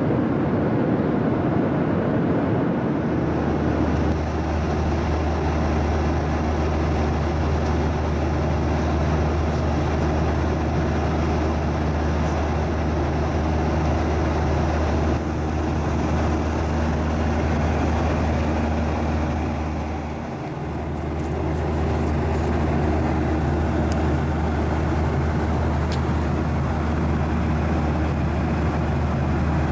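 Steady roar inside the cabin of a Boeing 737-900ER jet airliner: engine and airflow noise with a strong low hum. The roar dips briefly about two-thirds of the way in.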